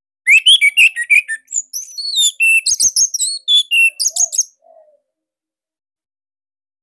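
Orange-headed thrush (anis merah) singing one fast, loud phrase of varied whistled and chirped notes, ending about four and a half seconds in.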